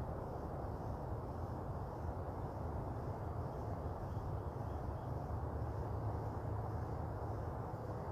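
Steady outdoor background noise, a low rumble with a faint high-pitched pulsing about once a second.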